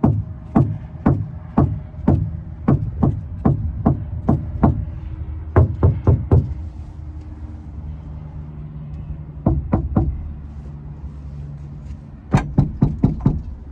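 Repeated knocks on a van's body panel as a sound-deadening check on the other side of the van: about two knocks a second at first, a pause, a few more, then a quick burst of knocks near the end, over a low steady hum.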